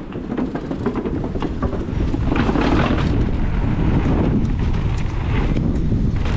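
Wind buffeting the microphone and tyre roar as a mountain bike is ridden fast down a dirt trail, with scattered clicks and rattles from the bike over the ground.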